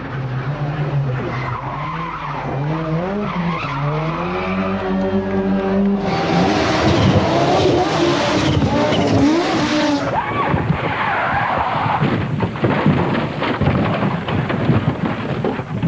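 Rally car engine revving hard, its pitch climbing and dropping with gear changes, then a loud rush of tyre skidding noise as the car slides past from about six seconds in.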